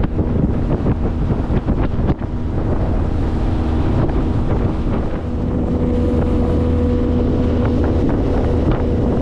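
Boat's outboard motor running steadily under way, with wind buffeting the microphone.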